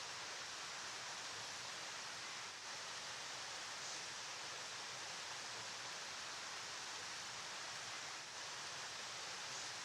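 River water flowing steadily, an even hiss of running water with no change throughout.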